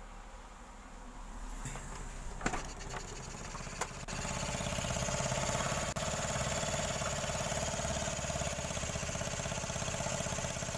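Freshly rebuilt TVS Jupiter scooter engine being started after a full rebuild from seizure: a few seconds of cranking with clicks, then it catches about four seconds in and idles steadily.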